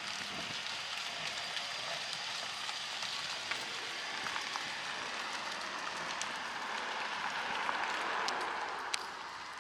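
Steady outdoor background hiss with scattered faint clicks, swelling for a couple of seconds near the end.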